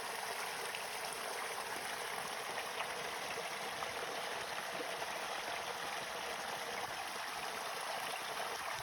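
Steady rushing of flowing water, with no change in level.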